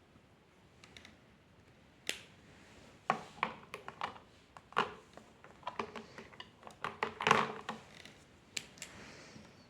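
A run of irregular sharp clicks and snips from drawing tools being handled, starting about two seconds in and thickest near the middle.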